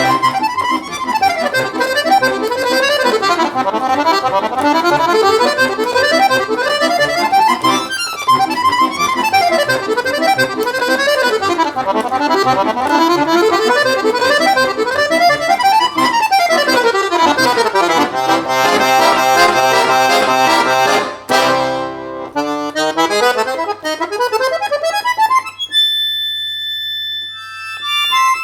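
Solo accordion playing a fast piece, with quick runs of notes sweeping up and down. About 21 seconds in a sharp accented chord cuts the runs off, followed by a few slower notes and, near the end, quieter high held tones.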